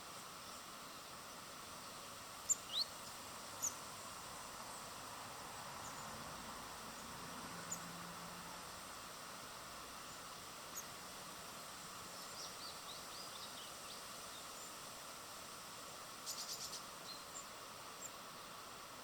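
Small birds giving short, high chirps now and then over a steady outdoor hiss, with a quick run of several chips about three-quarters of the way through.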